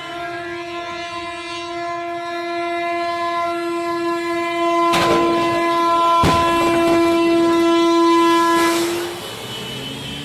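Train horn held in one long, steady blast that grows louder about halfway through and stops near the end. Two sharp bangs cut across it, about five and six seconds in.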